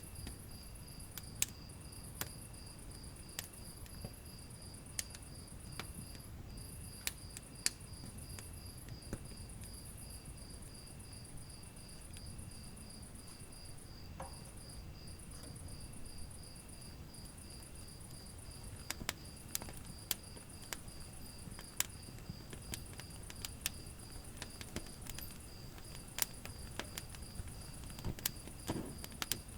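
Wood fire burning in a fireplace: a low steady rumble with frequent sharp crackles and pops. A high-pitched pulsing chirp runs steadily underneath.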